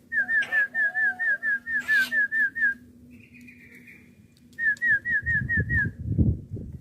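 A run of quick, evenly repeated whistled notes, about four a second, then a short rasping note, then six more of the same whistled notes. A low rumble comes in near the end.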